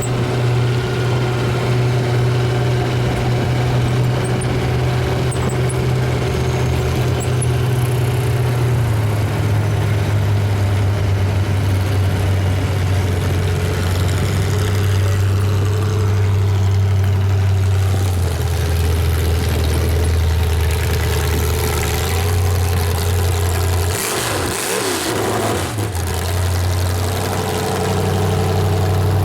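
Vehicle engine running steadily, its pitch dropping in two steps and rising again near the end.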